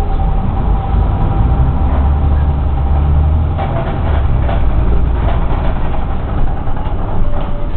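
Bus engine running with a deep, steady low rumble, heaviest about two to three and a half seconds in, with scattered knocks and rattles in the second half.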